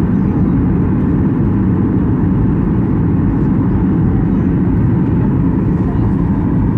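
Steady cabin noise of an airliner in flight on its descent: a constant low rush of engine and airflow, heard from inside the cabin.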